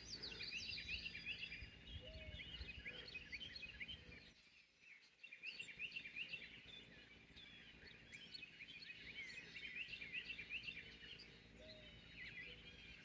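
Faint dawn chorus of several kinds of small songbirds, many quick overlapping chirps and twitters, dropping away for about a second around four and a half seconds in.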